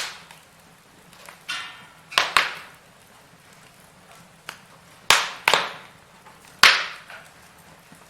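Firewood burning in a fireplace, crackling with about seven sharp pops and snaps spread unevenly, the loudest two-thirds of the way through, and a brief hiss about a second and a half in.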